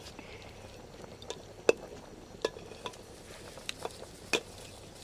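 A metal spoon clinking against a cooking pot while the curry is stirred: about seven sharp, uneven knocks with a brief ring, the loudest just under two seconds in.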